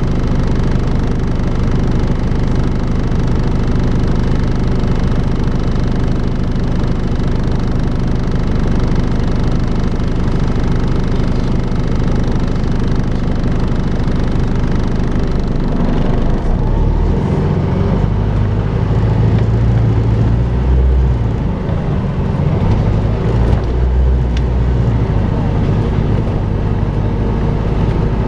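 Volvo B5LH diesel-electric hybrid double-decker bus running with its vacuum-cleaner-like 'hoovering' drone. The drone holds steady at first, and from about two-thirds of the way in a deeper, uneven rumble joins it.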